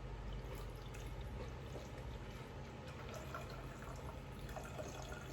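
Water being poured into a bottle, a quiet steady trickle.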